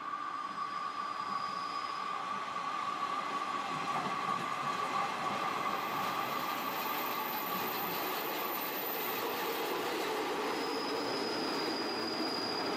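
JR Shikoku Kiha 32 diesel railcar pulling into a station: a steady high ringing from the wheels and rails as it approaches, fading after about nine seconds as the rumble of the train rolling past the platform grows louder.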